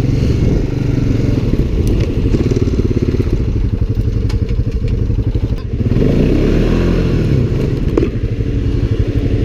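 ATV or side-by-side engine running hard in deep snow while a stuck machine tries to drive out in four-wheel drive. There is one rev that climbs and falls back about six to seven seconds in.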